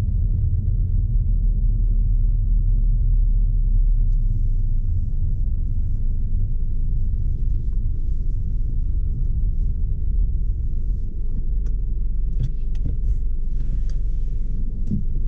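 Steady low rumble of the 2020 Jaguar XE P300 on the move: its 2.0-litre turbocharged four-cylinder and tyre noise, with a few faint clicks near the end.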